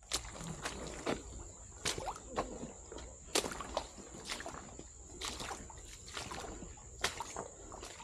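Footsteps squelching through mud, irregular steps about one or two a second.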